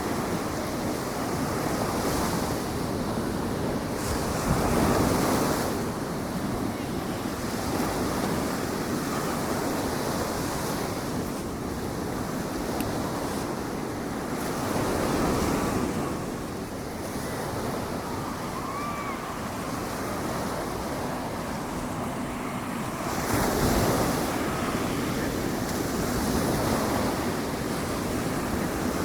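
Ocean surf washing onto the beach, a steady rush that swells louder as waves break, about three times.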